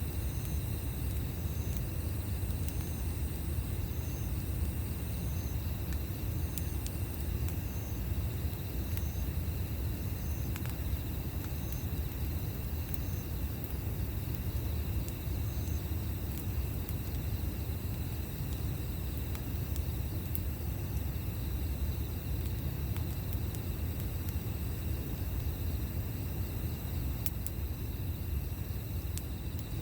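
Campfire burning: a steady low rumble with sparse, sharp crackles. Through the first half, an insect chirps faintly about once a second.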